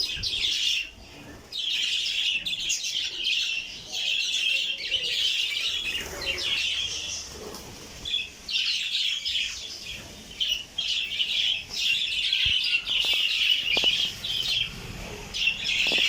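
A flock of budgerigars chattering and warbling, a dense mass of overlapping chirps with a few brief lulls.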